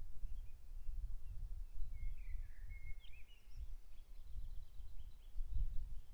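Wild birds singing and calling in short, scattered phrases, with one fuller warbled phrase about two seconds in, over a low, uneven rumble.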